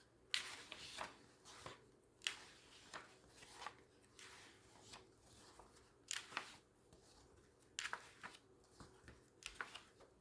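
Paper magazine pages being handled and turned, with soft rustling and a crisp flick every second or two.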